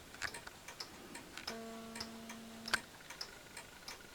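Pendulum clock ticking, faint and steady. About a second and a half in, a faint held tone sounds for just over a second and ends at a tick.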